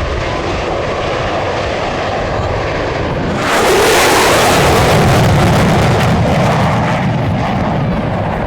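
An aircraft flying past: a steady engine roar that swells suddenly about three and a half seconds in, stays loudest for a few seconds, then eases off.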